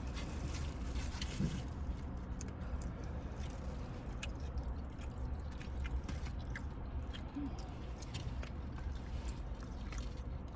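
A person chewing and biting food close to the microphone: many small scattered clicks and crunches, over a steady low rumble.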